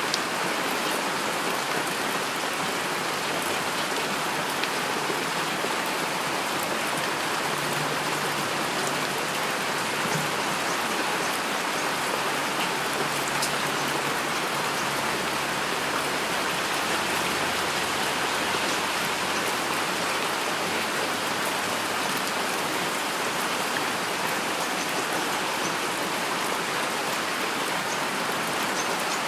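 Steady heavy rainfall: an even, unbroken hiss of rain with scattered drops ticking through it.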